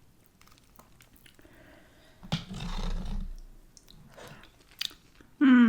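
Close-miked eating sounds from someone eating mussels: small wet mouth clicks, then a louder, noisy mouth sound lasting about a second, a little over two seconds in.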